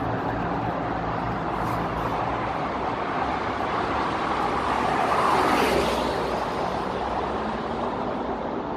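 Kawasaki ZX-10R inline-four sports-bike engine running through a Mivv aftermarket exhaust in a tunnel. Its pitch rises to a loud peak a little past halfway and falls away, then starts climbing again near the end.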